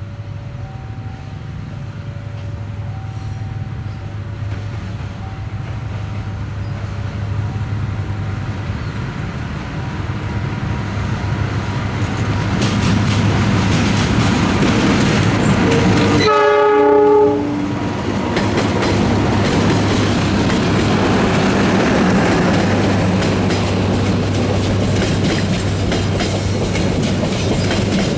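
A diesel-hauled passenger train approaching and passing: a low engine hum and wheel noise grow steadily louder, a short horn blast comes about sixteen seconds in, and then the wheels clatter over the rail joints as the carriages go by. An alternating two-note warning tone sounds through the first third.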